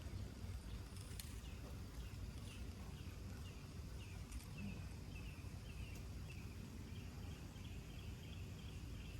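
A small bird chirping over and over, short falling chirps two or three a second, over a low steady rumble.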